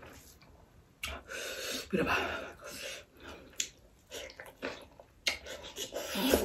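A person eating rice by hand: chewing with wet mouth smacks and a few sharp clicks.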